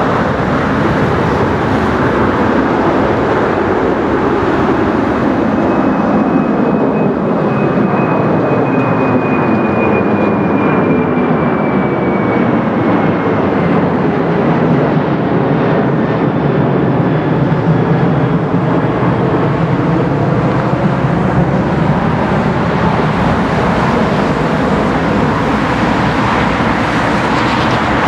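Boeing 747-400 freighter's four jet engines running loudly as the aircraft passes, with a high fan whine that slowly falls in pitch through the middle.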